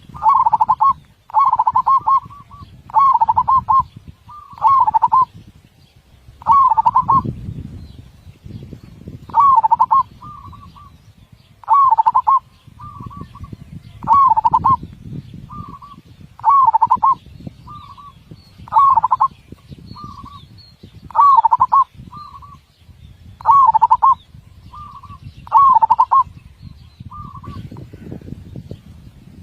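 Zebra dove (perkutut) cooing in a big voice with closely spaced beats: a steady, rhythmic series of cooed phrases, one every couple of seconds, with softer single notes between them in the second half.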